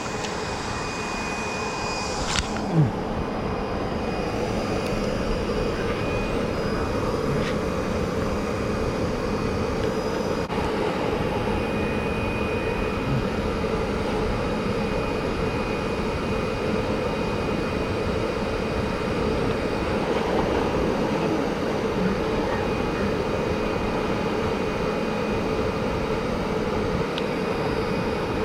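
A steady mechanical drone with a faint high whine, with a short click and a thump about three seconds in.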